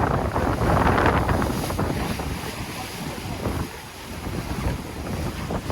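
Wind buffeting the microphone over water rushing and splashing along the hull of a J/105 racing sailboat under way. It is loudest in the first couple of seconds, then eases and dips briefly before building again near the end.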